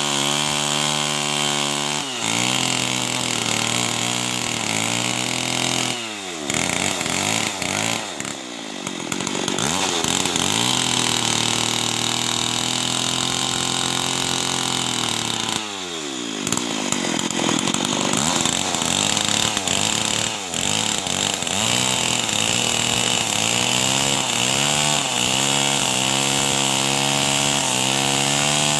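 Two-stroke chainsaw running at high revs while ripping lengthwise through wood. Its pitch drops sharply as the chain bites in, about two, six and sixteen seconds in, wavers under load, then climbs back.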